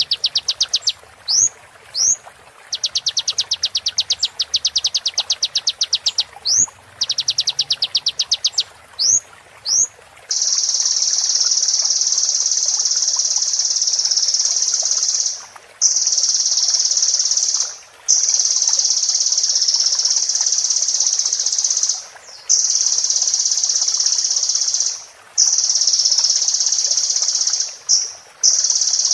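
High-pitched sunbird song: for about ten seconds, rapid trills and short rising whistled notes, then long unbroken high buzzy trills lasting a few seconds each, broken by brief gaps.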